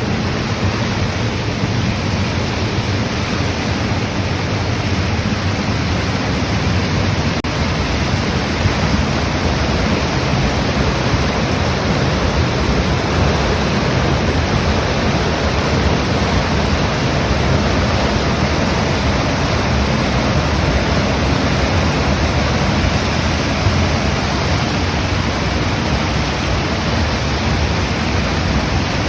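A rain-swollen river running in flood: a loud, steady rush of water.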